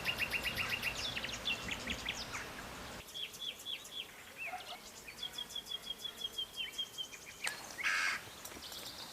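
Small birds chirping and singing, with runs of short repeated notes and, in the middle, a quick even trill of a dozen or so notes. A steady background hiss drops away sharply about three seconds in.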